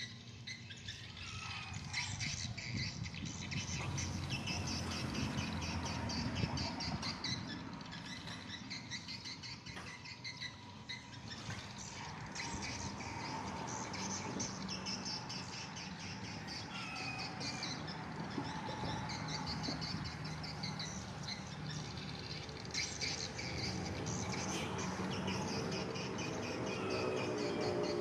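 Swiftlets twittering: many rapid high chirps, over a steady low hum.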